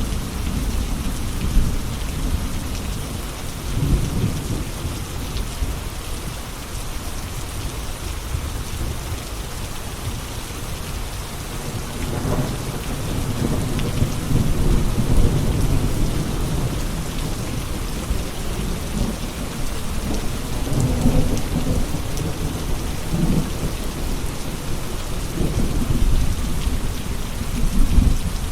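Steady rain with rolling thunder: the rain hisses throughout while low rumbles of thunder swell and fade several times.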